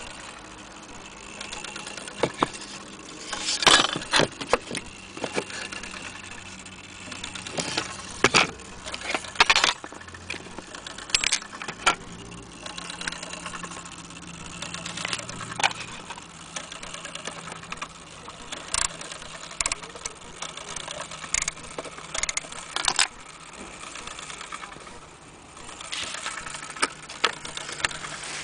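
Irregular clicks, knocks and light rattles from a vintage HAC mantle clock being handled, over a steady low hum.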